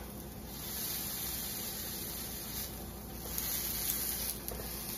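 Oyster-mushroom vegan crab cakes sizzling in oil in a cast-iron skillet: a steady hiss that swells and eases a few times.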